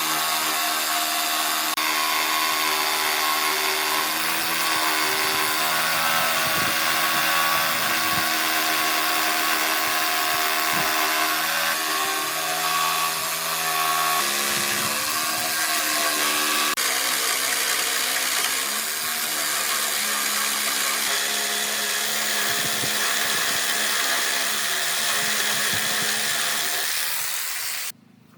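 Electric power tool motor running steadily under load on wood. Its pitch shifts a few times, and it cuts off abruptly near the end.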